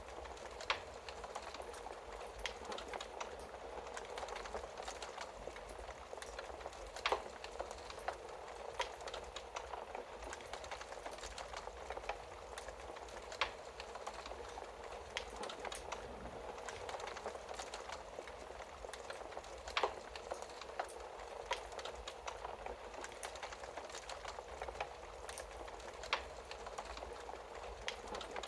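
Wood fire crackling in a fireplace: a steady hiss with irregular sharp pops, a handful of them louder than the rest.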